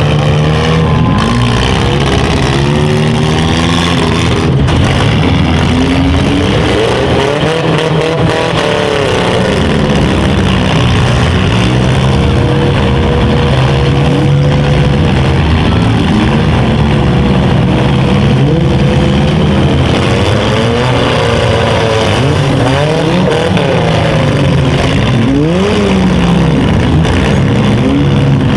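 Engines of several small cars in a demolition derby running and revving at once, their pitches rising and falling over one another.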